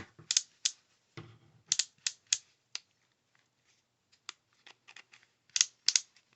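Irregular sharp clicks and taps of a cordless hammer drill/driver being handled, a dozen or so at uneven spacing, with a quieter gap midway.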